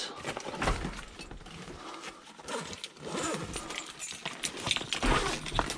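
Tools and kit being picked up and handled: irregular knocks, clicks and clatter of things being moved about.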